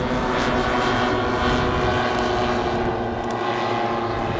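Engines of radio-controlled scale warbird models in flight, including a P-51 Mustang, running steadily as they fly past and easing off slightly toward the end.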